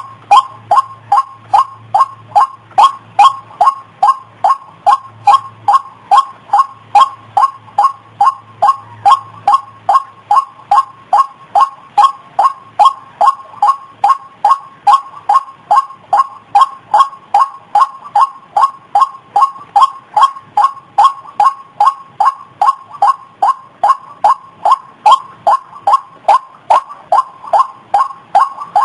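White-breasted waterhen (ruak-ruak) calling over and over, an unbroken series of short 'ruak' calls at about two to three a second. It is a recording used as a lure to draw the birds in for trapping.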